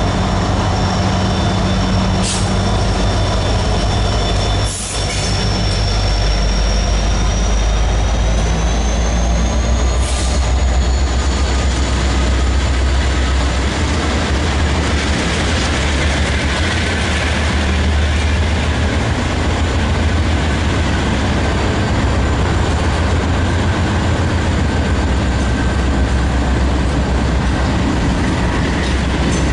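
Freight train rolling past, a long steady rumble of rail cars with a thin high squeal of wheels on the rail.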